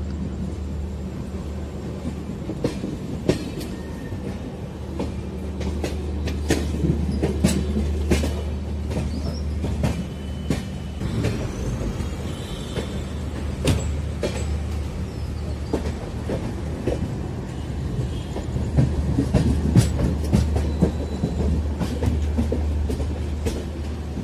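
Train running over the tracks: a steady low rumble with irregular sharp clanks as the wheels cross the points and rail joints while the train switches to another line.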